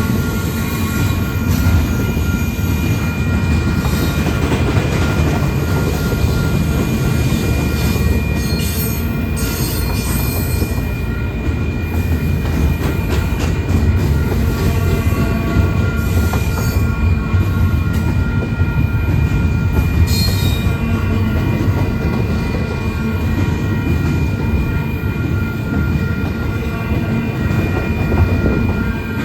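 Freight train rolling past with a steady heavy rumble of wheels on rail and a thin, steady high squeal from the wheels, broken a few times by sharp clanks.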